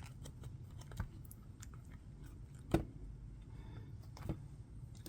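Scattered light clicks and taps of small objects being handled, with one sharper knock about halfway through, over a low room hum.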